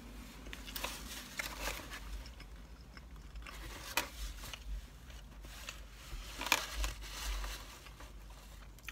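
Eating noises: pizza being chewed, with a paper napkin rustling and crinkling in a few short bursts.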